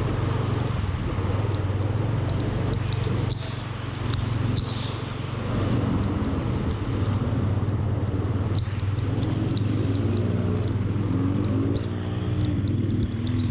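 A vehicle engine running steadily as a low hum, under a constant hiss of rain and water. Another engine note rises and falls near the end.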